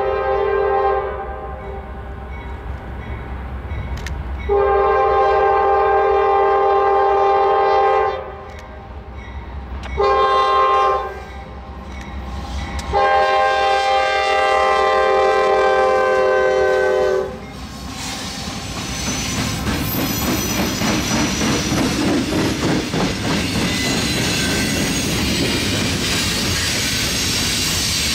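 Norfolk Southern freight locomotive's multi-note air horn sounding as the train approaches: the tail of one long blast, then a long, a short and a long blast, the long-long-short-long grade-crossing signal. Then the locomotives and the loaded flatcars roll past close by, with a steady rumble and wheel clatter that grows louder.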